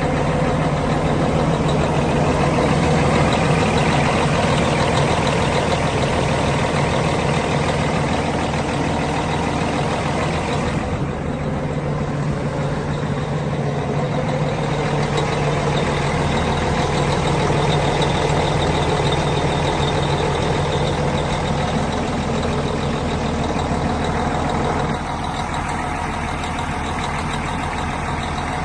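Heavy truck engine idling steadily, with a slight drop in level near the end.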